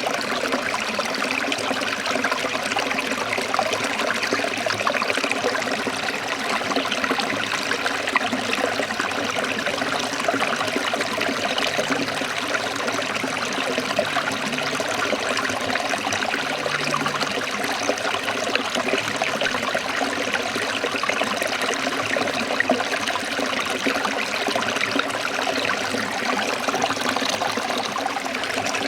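A forest stream trickling and splashing over rocks in a steady, continuous rush of water.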